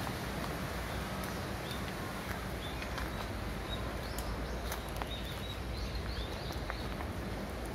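Short bird chirps now and then over a steady rushing noise outdoors, with a few light clicks.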